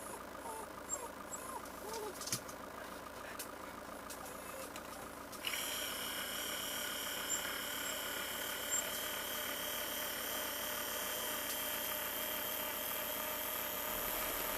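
Motorhome engine running steadily, with an even mechanical drone. About five seconds in it gets louder and a steady high whine comes in.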